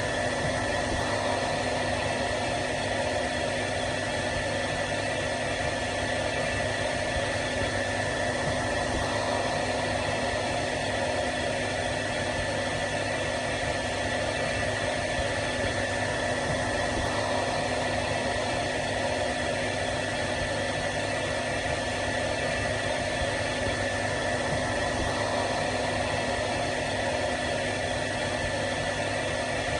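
Hair dryer running continuously: a steady fan-motor whir and rush of air, with a constant whine over even hiss.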